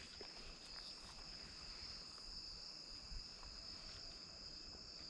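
Faint, steady chorus of insects, an even high-pitched trill with no breaks.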